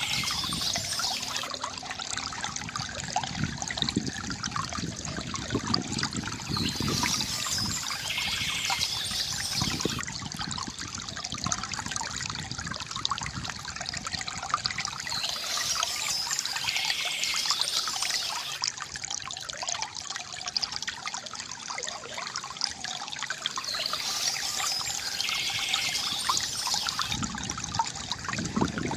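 Water trickling and gurgling steadily from a bamboo fountain, with short high bird chirps coming back about every eight seconds.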